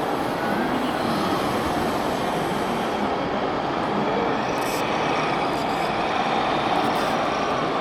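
Steady whirring and grinding of a 1/14-scale RC construction model's small electric drive motors and gears running.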